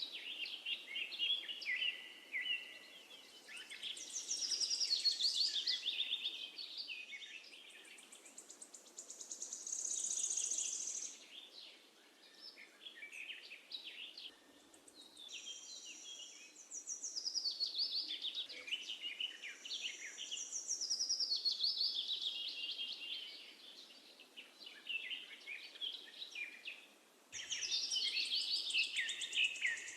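Several songbirds singing in overlapping chirping and trilling phrases, each a few seconds long with short lulls between. The chorus picks up sharply again near the end.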